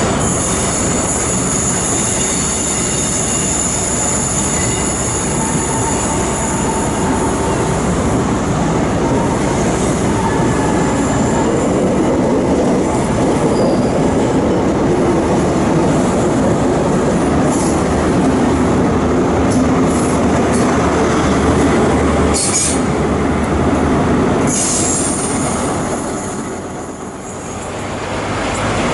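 A train running on the rails past the platform, its wheels squealing in high thin tones during the first several seconds. Two short sharp clicks come later, and the sound dips briefly near the end.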